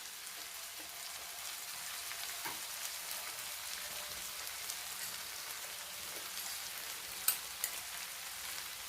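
Thick chicken curry sizzling steadily in the pan over low heat, its liquid cooked down, with a few light clicks.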